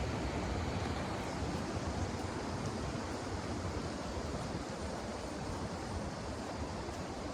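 Steady rushing noise with no separate events, even throughout and heaviest in the low end.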